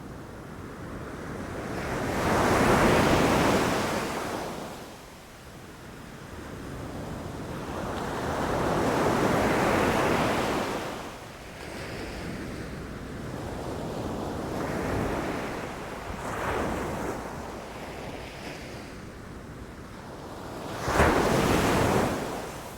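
Ocean waves breaking on a beach, each one a wash of surf that swells and fades. Two large waves come in the first half and smaller ones follow, then a sharper, louder crash near the end.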